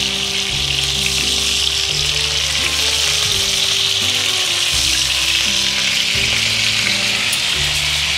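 Hot oil sizzling steadily in frying pans, with thin vermicelli toasting and breaded pork schnitzels frying.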